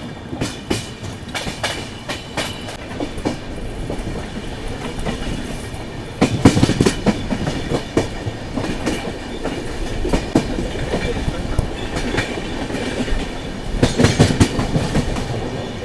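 Express passenger train's coach wheels clattering over rail joints and points as it runs out of the station. The clatter gets louder twice, about six and fourteen seconds in.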